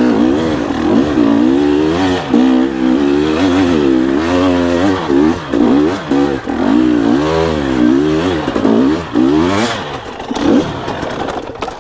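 Dirt bike engine revved up and down over and over, about once a second, as the rider tries to climb a slick muddy hill. The revs fall off and break up near the end.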